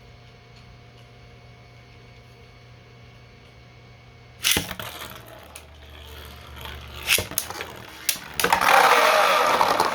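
3D-printed plastic beyblades launched into a stadium with a sudden loud start about four and a half seconds in, then spinning and clashing with sharp knocks, ending in a loud, continuous clatter as they collide and skid toward the stadium pockets. Before the launch only a low steady hum is heard.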